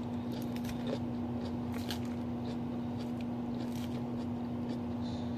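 A person chewing food close to the microphone, with scattered small wet mouth clicks, over a steady low electrical hum.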